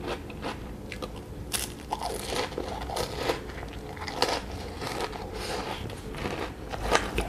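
Close-up crunching and chewing of a mouthful of ice cream cone with a crisp chocolate cone: a run of irregular, crisp crunches.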